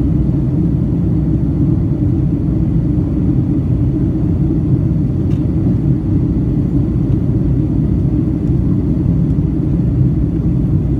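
Steady low rumble of an airliner's engines and rushing air, heard from inside the cabin as the plane climbs after takeoff.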